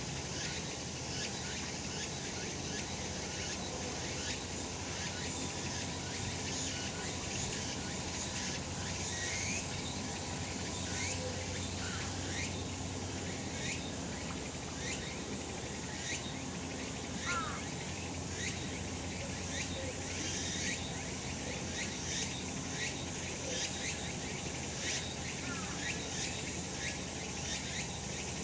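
Cicadas singing in a dense, steady summer chorus, with many short buzzing pulses over a continuous high-pitched drone.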